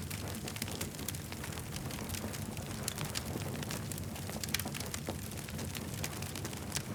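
Campfire crackling: many irregular sharp pops and snaps of burning wood over a steady low rumble of the flames.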